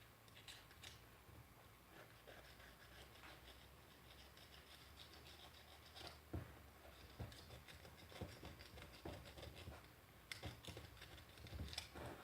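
Faint, irregular scraping and light clicks of a small knife blade scraping softened paint off a plastic grinder housing, in short strokes about once a second.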